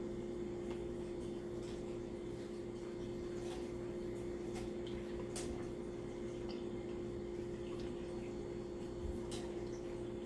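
Quiet chewing of a mouthful of sandwich: faint, scattered mouth clicks over a steady low hum.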